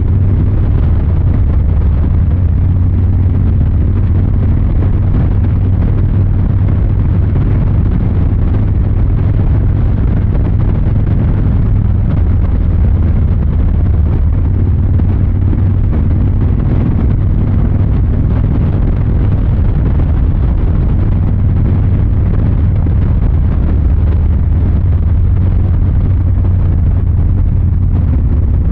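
Harley-Davidson Fat Boy 114's Milwaukee-Eight 114 V-twin running steadily, its low exhaust note holding level without revving up or down.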